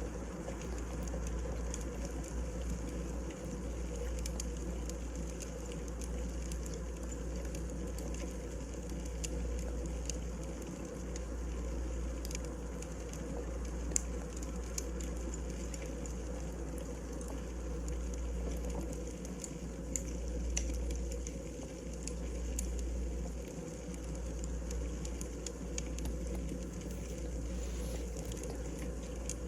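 Wood fire burning in a fireplace: a steady low rumble of flames with scattered crackles and sharp pops from the burning logs.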